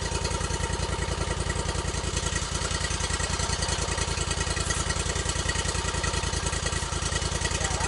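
Small gas engine of a portable sawmill idling steadily, with an even putter.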